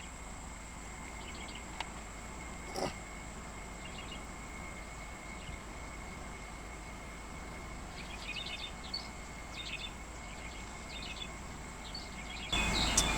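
Outdoor ambience: a steady high-pitched insect drone, with a few short bird chirps about eight to eleven seconds in and a single knock near three seconds in.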